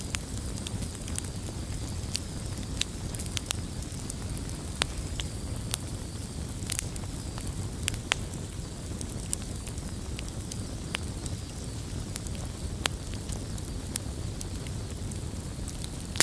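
Wood fire burning in a fireplace: a steady low rumble with frequent sharp crackles and pops from the burning logs, scattered irregularly.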